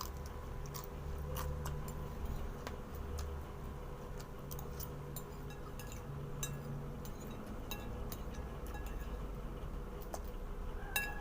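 Eating noises: scattered small clicks and light clinks, a few each second, over a steady low hum.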